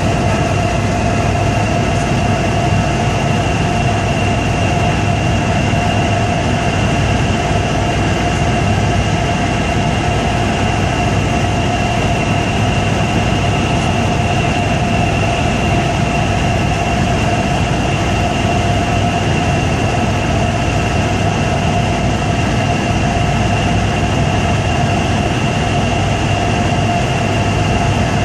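Helicopter in flight: a loud, steady drone of engine and rotor with a constant high whine over it, unchanging throughout.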